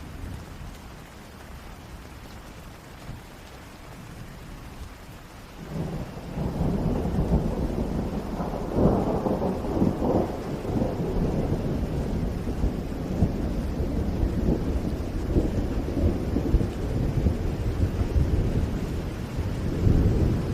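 Thunderstorm: steady rain, then about six seconds in a long, deep rumble of thunder builds and rolls on, loudest a few seconds after it starts and swelling again near the end.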